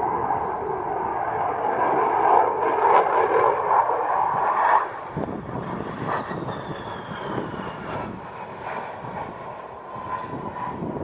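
Saab JAS 39 Gripen's single Volvo RM12 turbofan, loud jet noise as it passes. About five seconds in the loud part cuts off sharply to a quieter rumble, and a thin whine falls slowly in pitch as the jet draws away.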